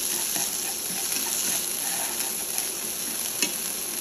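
Sliced shallots sizzling in hot oil in a nonstick frying pan while being stirred with chopsticks, with small clicks throughout and one sharp tap near the end.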